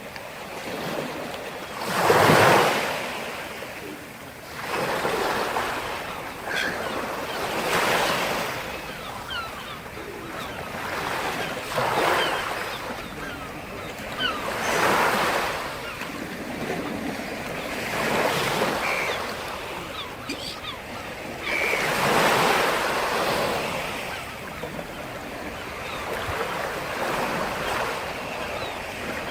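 Sea surf: waves breaking and washing up the shore one after another, each swell rising and falling roughly every three to four seconds, with light fizzing and crackle from the foam between them.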